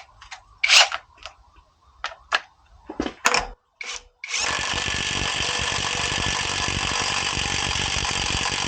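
A few clicks and knocks, then about four seconds in a power wrench starts and runs steadily with a rapid pulsing rattle, tightening a nut on a newly fitted CV axle until it is torqued.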